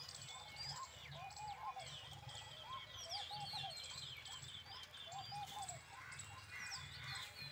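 Many birds chirping, with quick high sliding chirps throughout and a lower warbling call that comes back several times. A steady low hum runs underneath.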